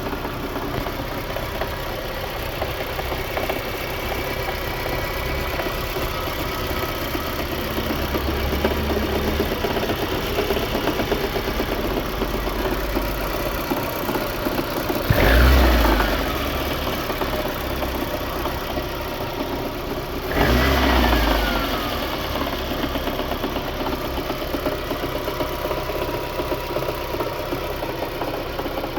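Lada 2110's eight-valve four-cylinder engine idling with a rapid knock, revved briefly twice, about halfway through and again a few seconds later, each time dropping back to idle.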